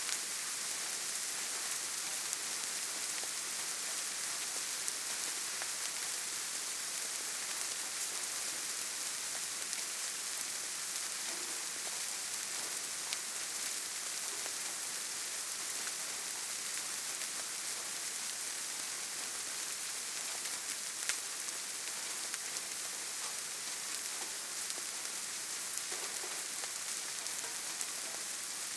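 Steady rainfall in a forest, a dense even hiss with scattered individual drops ticking.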